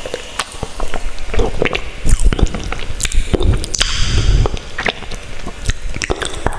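Close-miked wet eating sounds from a mouth chewing spicy instant ramen noodles: irregular sticky clicks and squishes.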